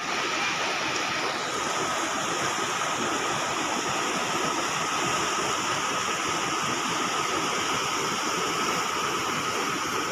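Fast-flowing floodwater of the swollen Teesta river rushing past: a steady, even rush of water that begins abruptly.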